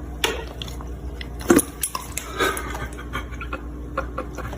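Dog licking at sparkling water, a few irregular wet mouth clicks and smacks over a steady low hum.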